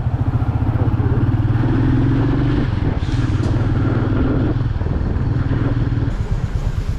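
Royal Enfield Meteor 350's single-cylinder engine running with an even pulsing beat. The engine speed rises slightly about a second in and eases back down around four and a half seconds in.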